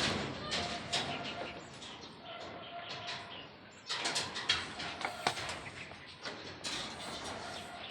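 Irregular knocks and clinks of construction work, with a short steady tone that comes and goes a few times.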